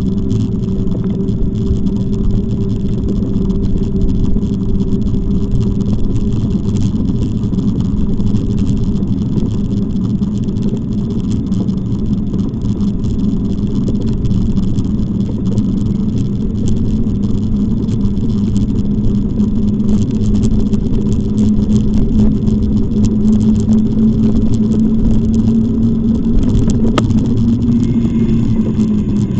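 A motor humming steadily over loud low rushing noise while moving. Its pitch creeps up in the second half and drops just before the end.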